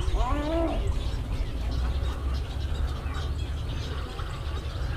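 Birds calling in a nesting colony: one short call with harmonics in the first second, then scattered faint chirps, over a steady low rumble.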